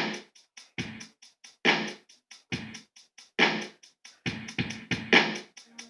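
A slow drum-machine beat playing on its own, with heavier and lighter hits alternating and quick hi-hat ticks in between.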